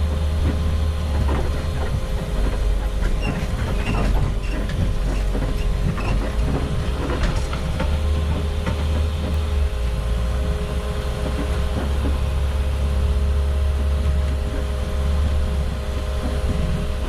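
Inside a converted school bus driving: the engine's steady low drone, with rattling and knocks from the cabin that are thickest over the first half.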